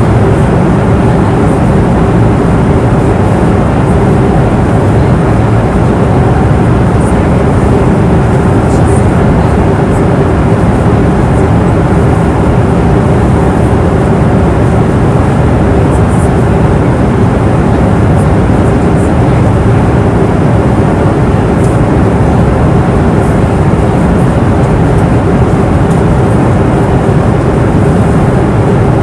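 Passenger airplane cabin noise in flight: a steady, low rushing noise of engines and airflow with a steady hum running through it.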